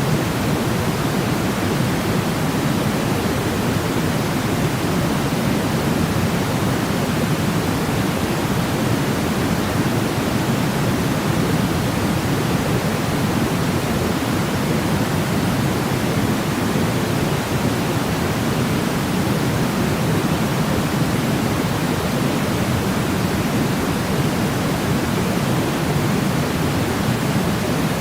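Steady white noise for baby sleep, an even, unchanging rush weighted toward the deep end, with no rhythm or breaks.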